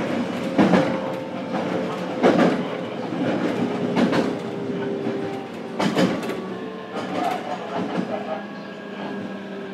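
Inside a JR Kyushu BEC819 series DENCHA battery-electric train running at speed: a steady motor hum with a faint slowly drifting whine, and the wheels clacking over rail joints about every one and a half to two seconds.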